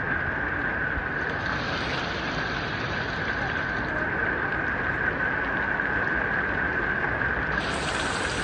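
Heavy rain falling and floodwater flowing, a steady hiss with no break.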